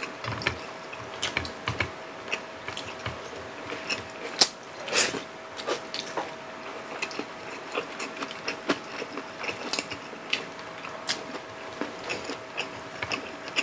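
Close-up eating sounds from two people eating fried milkfish and rice with their hands: irregular wet chewing, lip smacks and small clicks, a few louder ones around four to five seconds in, over a faint steady hum.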